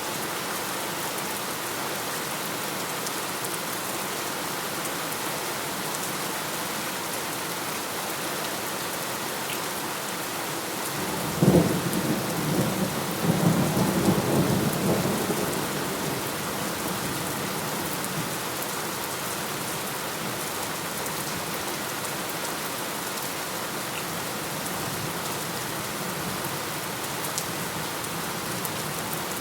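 Steady heavy rain falling, with a single roll of thunder breaking in sharply about a third of the way through, rumbling for several seconds before fading back into the rain.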